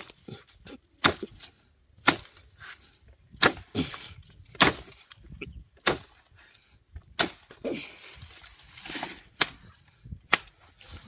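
Machete (dao) chopping with sharp strikes about once a second, nine or ten blows in a row.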